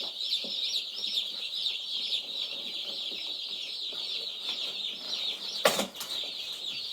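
A brooder full of day-old meat chicks and turkey poults peeping nonstop in a dense chorus of rapid high chirps. A single sharp knock cuts through about six seconds in.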